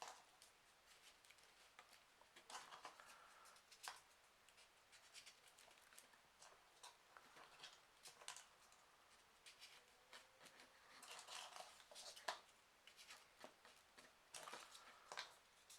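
Faint rustling and irregular light ticks of folded paper pieces being handled and slotted into a 3D origami model, one after another, with a few louder clusters of crinkling.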